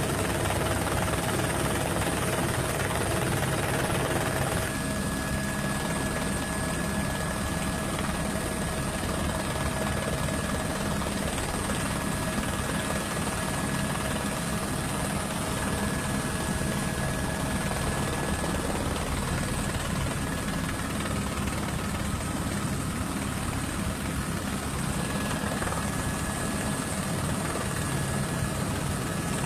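An engine running steadily, a continuous drone with a fast low throb and a thin high whine over it, with a slight shift in tone about four and a half seconds in.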